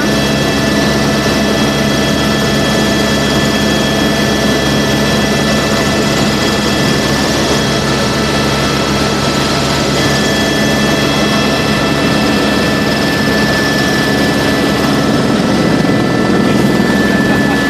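Helicopter in flight: a loud, steady mix of turbine and rotor noise with a constant high-pitched whine over a low hum. The whine shifts in pitch about ten seconds in.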